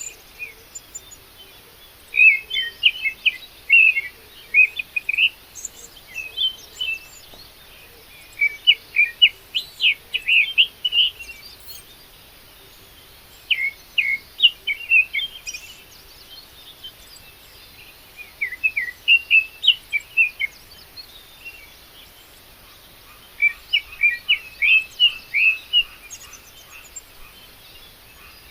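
A songbird singing: short bursts of quick chirping notes, each phrase lasting a second or two and repeated every few seconds, with a faint rapid pulsing joining in near the end.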